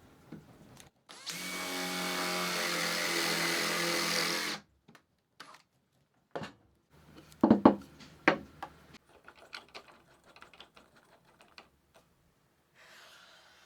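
A power tool's motor runs steadily for about three seconds, then cuts off. It is followed by a few sharp knocks and a string of lighter clicks and taps as wooden parts and tools are handled.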